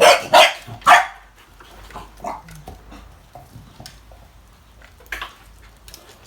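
A dog barking three times in quick succession, then a couple of fainter, shorter barks.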